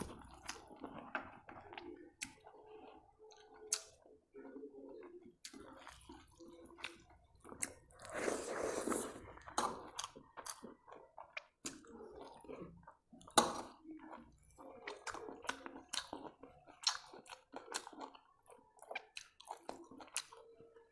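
Close-miked chewing and wet mouth smacks of someone eating rice by hand, with many short irregular clicks and one louder click about thirteen seconds in.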